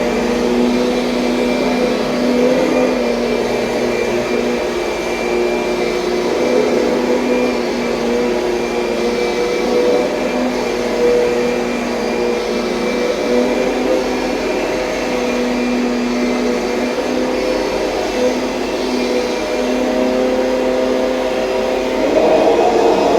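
2007 Kirby Sentria upright vacuum cleaner running steadily, a constant motor whine over fan noise, swelling louder briefly near the end.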